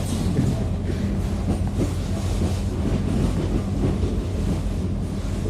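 Airport rail-link passenger train running, heard from on board: a steady low hum with scattered clicks and knocks from the wheels on the track.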